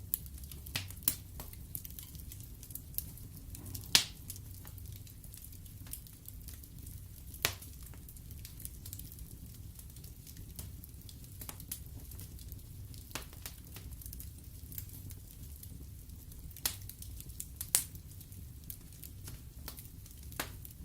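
Wood fire burning in a fireplace: a steady low rumble of flames with scattered crackles and pops from the logs, the sharpest pop about four seconds in and a few more near the end.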